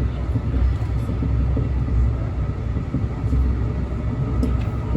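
Steady low rumble of a train, with faint steady tones above it.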